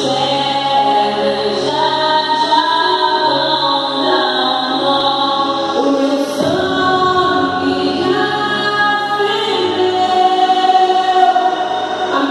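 Music: several voices singing held notes in harmony, like a choir.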